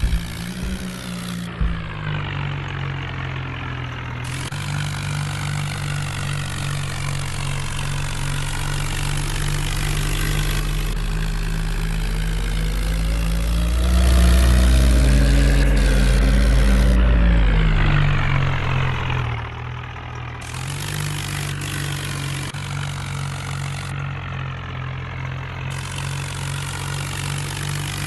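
Farmtrac tractor's diesel engine running steadily, then revving up and working hard from about twelve seconds in, louder with a deep rumble, before dropping back to a steady run near the end; the engine is straining to pull a heavy trolley.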